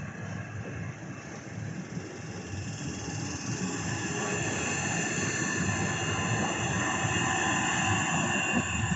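Southeastern Class 465 Networker electric train moving through the platform: a steady noise of wheels and motors with several high steady tones, growing louder over the first several seconds and then holding.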